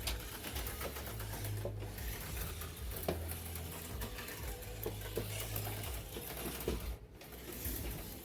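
HO-scale slot car running laps on the track, its small electric motor buzzing steadily, with a low hum that comes and goes several times.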